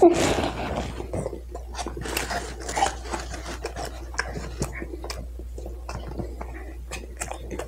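Close-up chewing of a mouthful of food: irregular wet mouth clicks and crackles. A plastic fork scrapes and rubs in a styrofoam takeout container.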